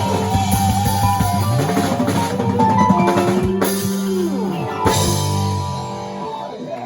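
Rock band playing the closing bars of a song: busy drum kit fills under sustained, bending electric guitar notes, with two sharp accented hits in the middle, and the sound dying away near the end.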